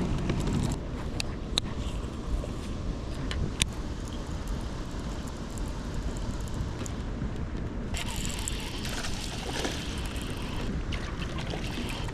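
Wind on the microphone and water lapping around a fishing kayak, with a few light clicks and a brighter hiss from about eight to ten seconds in.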